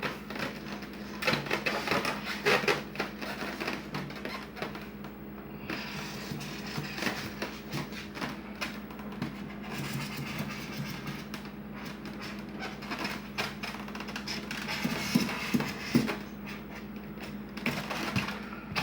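Highlighter marker scratching and squeaking in short irregular strokes on a cooler lid as the outline of a fan is traced, with small handling knocks, over a steady low hum.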